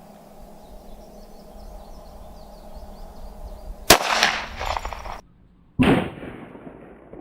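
A .45 ACP pistol shot from a Glock 21 about four seconds in, with an echoing tail. After a moment of dead silence a second sharp shot with a fading echo follows. Faint cricket chirping comes before the first shot.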